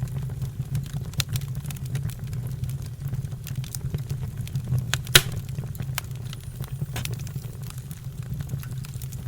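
Fire crackling: scattered sharp pops and snaps over a steady low rumble, with the loudest pop about five seconds in.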